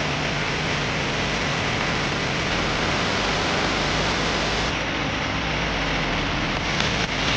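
Longtail boat under way: a steady, loud rush of its engine running, mixed with wind and water noise.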